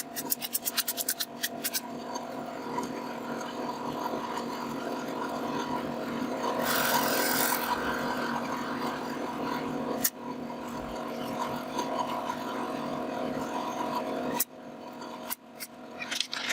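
Wood being scraped and rasped with a hand tool. It opens with a quick run of clicks, continues as steady scraping, and ends with another run of clicks.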